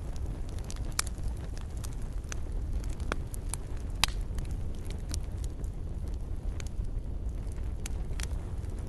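Wood fire crackling in a fireplace: a steady low rumble of flame with irregular sharp pops and snaps, the loudest pops about a second and about four seconds in.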